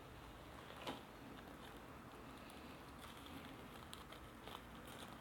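Near silence with a few faint clicks, the clearest about a second in.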